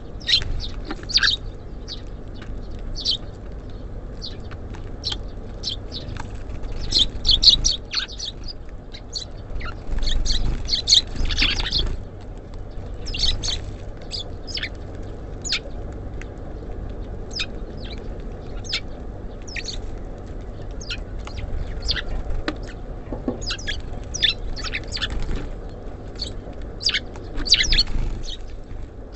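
Small birds at a feeder chirping: many short, sharp chirps come thick and fast throughout, in clusters, over a steady low rumble.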